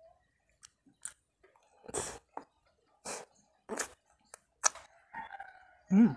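Close-miked chewing of a ham and cheese waffle: about five short, irregularly spaced chewing sounds, then a brief vocal sound from the eater near the end.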